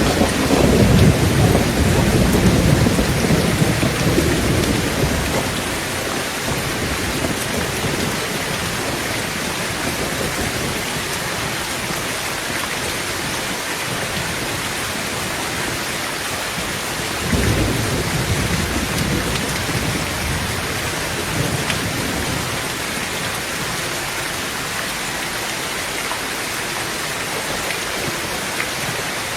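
Heavy rain falling steadily on a tin tent roof during a thunderstorm. Thunder rumbles loudly at the start and fades over about five seconds, and a second, shorter rumble comes a little past halfway.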